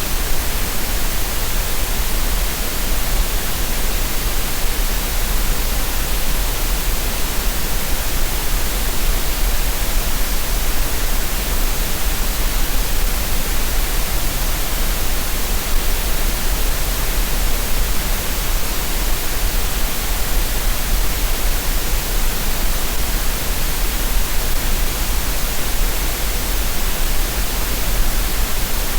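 Green noise: a continuous, even, steady hiss of synthetic noise that does not change, used for relaxation and tinnitus masking.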